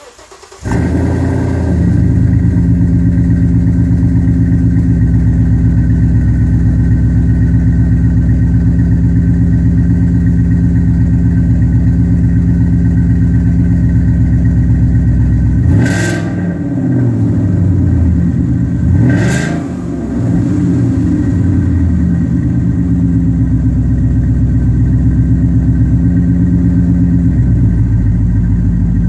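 A 2015 Mustang GT's 5.0 V8 through an H-pipe and two-chamber Flowmaster mufflers, starting up and settling into a steady, loud idle. About halfway through it gives two quick throttle blips about three seconds apart, each opening with a sharp crack, then drops back to idle.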